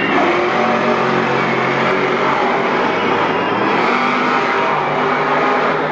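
Monster truck engine running loud at high revs.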